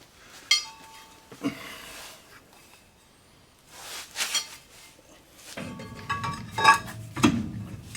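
Metal tools and brake parts being handled: a few separate sharp, ringing clinks and knocks, then a quicker cluster of clanks near the end.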